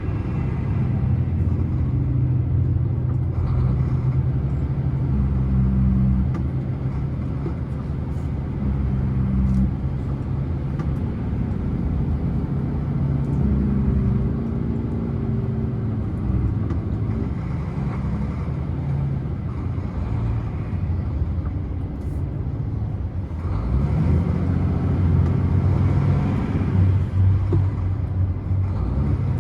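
Scania truck's diesel engine running steadily on a long downhill, its note shifting up and down in pitch. About 23 seconds in it gets louder, with a rising note.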